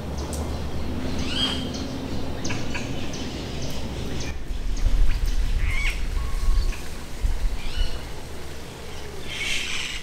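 Birds calling: many short chirps and squawks, one after another, over a steady low rumble that swells around the middle.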